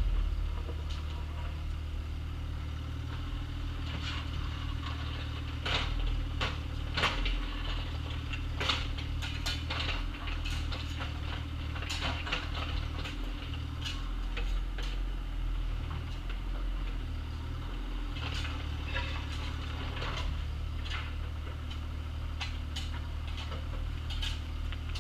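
Excavator engine running steadily while the digging gear gives irregular metallic clanks and knocks, the kind made by a bucket working through gravel and dirt.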